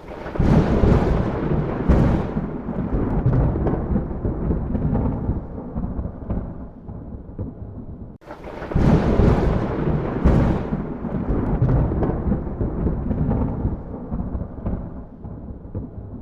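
Thunder: two long rolls, each opening with a sudden crack and crackles, then rumbling down over about eight seconds. The second begins about halfway through, and the sound cuts off abruptly at the end.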